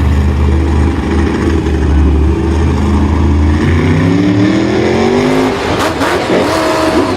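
A vehicle engine running steadily, then revving up with rising pitch for about two seconds before dropping back. A few sharp knocks follow near the end.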